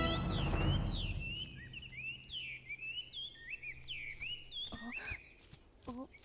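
Small birds chirping, with many short chirps rising and falling in pitch and overlapping, then a few lower calls near the end.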